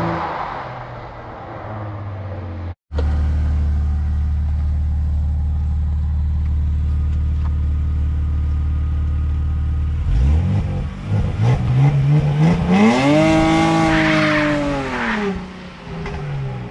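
BMW E46's M54B25 2.5-litre straight-six heard from behind the exhaust. After a brief dropout it idles steadily, then about ten seconds in the car pulls away hard: the revs climb sharply and then fall away as it draws off down the road.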